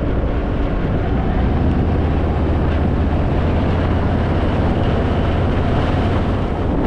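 Harley-Davidson Fat Boy's V-twin engine running steadily with the motorcycle under way, with wind rush over the microphone.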